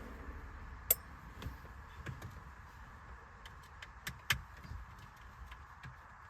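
Small scattered clicks and taps of a T10 Torx screwdriver against the plastic steering-wheel cover as the cruise control switch's screws are backed out, with two sharper clicks about a second in and about four seconds in.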